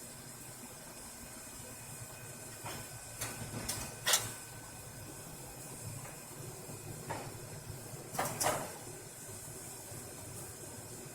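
A handful of short sharp clicks and knocks, the loudest about four seconds in and a close pair about eight seconds in, over a steady low hiss.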